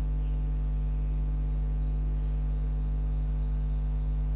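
Steady low electrical hum at mains frequency with its overtones, unchanging throughout, with no other clear sound.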